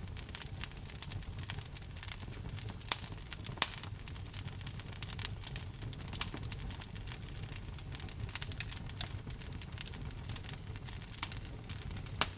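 Burning log fire crackling: a steady low rumble of flame with frequent sharp pops and snaps, a few much louder than the rest, about three seconds in, around six seconds and near the end.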